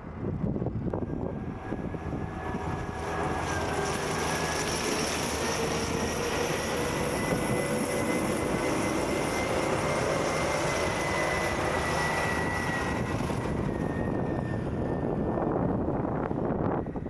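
A passing engine that builds up about a second in and fades near the end, with a faint whine that slowly rises and then falls over a steady rushing noise.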